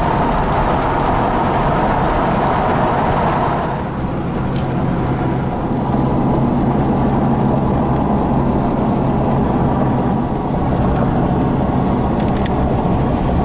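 Car engine and tyre noise heard from inside a moving car: a steady low engine hum under road rumble. The louder road hiss eases about four seconds in.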